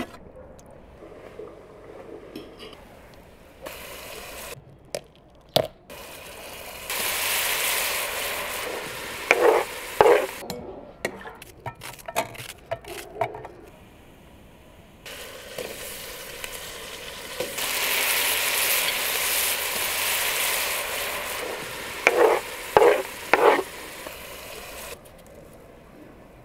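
Food frying in a hot pan, sizzling in two long spells, each followed by a few quick ringing taps of a utensil against the pan as it is stirred.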